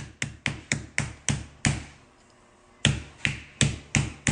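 Quick, even series of sharp knocks, about four a second, stopping for about a second in the middle and then resuming.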